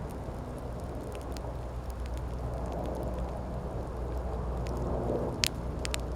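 Wood campfire burning: a steady low noise of the flames with scattered sharp crackles, and one loud pop about five and a half seconds in.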